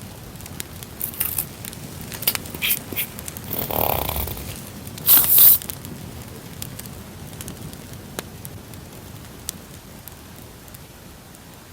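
Crackling campfire sound running as a steady bed with scattered pops, under rustling and scraping of paper and plastic packaging being handled. The loudest is a short double rasp about five seconds in.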